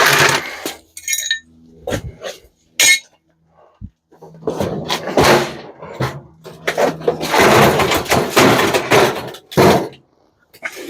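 Scrap appliance metal being handled: a clatter and a short metallic ring, a couple of sharp knocks, then two longer stretches of rattling and scraping.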